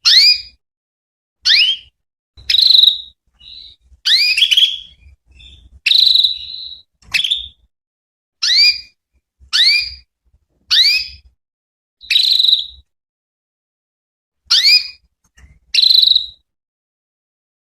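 Female domestic canary calling: about a dozen short, high chirps, roughly one a second, each sweeping quickly upward and some ending in a brief held note. These are the female calls used to prompt male canaries to answer.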